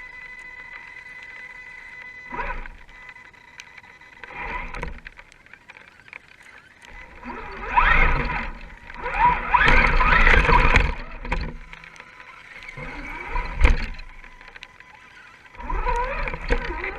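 Radio-controlled scale rock crawler's electric motor and geared drivetrain whining in short bursts as it is throttled, the pitch rising during the longer bursts in the middle. A sharp knock comes about two-thirds of the way through.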